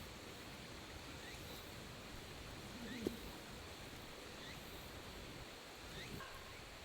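Faint outdoor ambience with a short, faint rising chirp repeating about every second and a half, and one soft knock about three seconds in.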